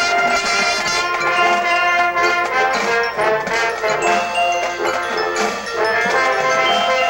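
Youth marching band playing: brass holding sustained chords, with mallet percussion.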